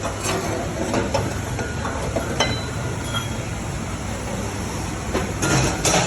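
Mercedes V8 engine running at idle through newly fitted headers and a performance exhaust, a steady low rumble. Several sharp knocks sound over it, a cluster of the loudest near the end.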